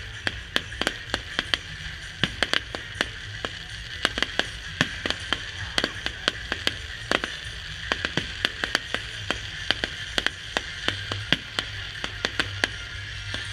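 Fireworks going off in a rapid, irregular run of sharp pops and bangs, several a second, over a steady background rumble.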